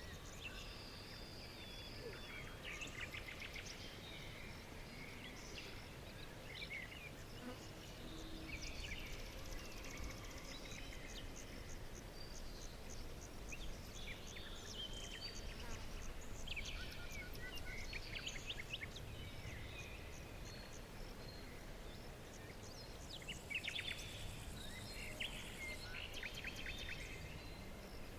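Several small birds chirping and trilling, short calls and rapid trills coming and going throughout, over a steady low background rumble.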